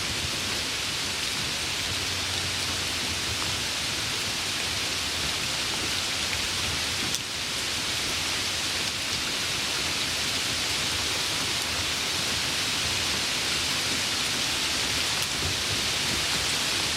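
Steady rain falling, an even continuous hiss, with a brief drop in level about seven seconds in.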